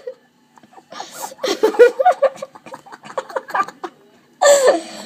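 Young people laughing in short, repeated bursts of giggles and snickers, with a louder voiced outburst near the end.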